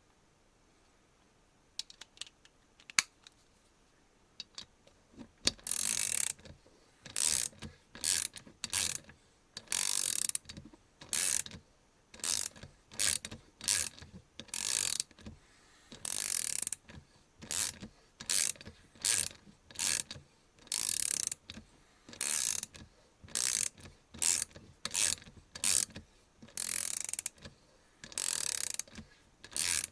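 MAC Tools MR100SPA 1/4-inch drive, 100-tooth swivel ratchet being swung back and forth, freewheeling in short bursts of fine clicking about once a second. A few faint handling clicks come before the ratcheting starts.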